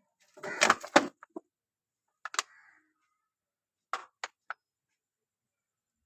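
Several sudden knocks and clicks: a loud cluster about half a second to a second in, another at about two and a half seconds, and three short ones around four seconds in.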